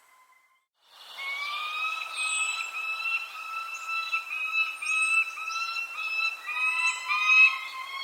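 Birdsong after a brief dropout of about a second: a run of steady whistled notes with overtones, one after another, with a second bird's notes joining near the end and thin, high, falling chirps over them.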